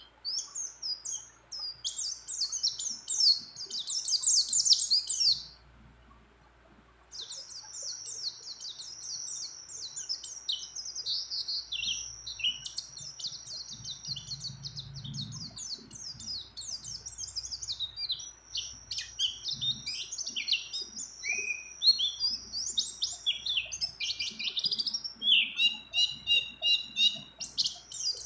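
White-eye (pleci) singing a fast, high-pitched twittering song in long unbroken runs, with one short pause about six seconds in.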